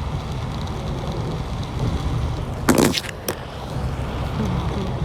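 Steady street noise of traffic and rain. About three seconds in, one loud sudden burst, then a short click.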